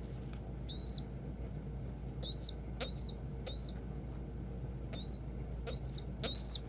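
A bird giving short, high chirps, each rising then dipping in pitch, about seven in a few seconds, over a steady low hum.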